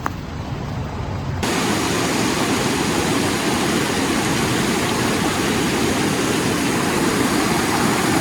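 Rushing river water: a steady, dense noise that comes in suddenly about a second and a half in, after a quieter start.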